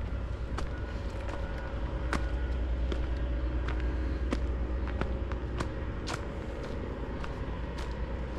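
Footsteps of a person walking on a path, a sharp step about every half second to second, over a steady low rumble.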